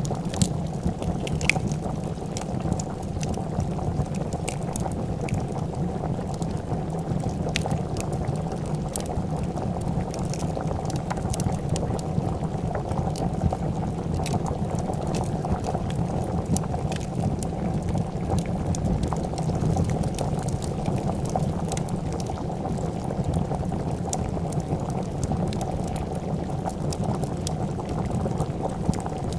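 A pot of soup boiling steadily, a dense bubbling, with scattered sharp crackles and pops from a wood fire throughout.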